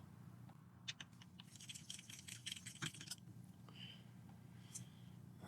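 Faint, scattered clicks and light scraping of a screwdriver turning screws out of a PlayStation 4's casing.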